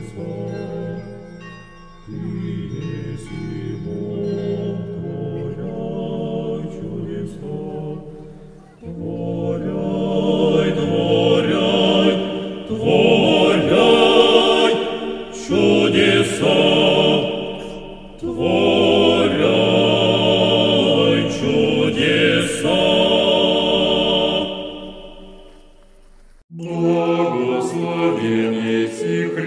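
Orthodox liturgical chant sung by a group of voices, holding long, steady notes. It grows louder and brighter about nine seconds in, breaks off briefly near the end, then resumes.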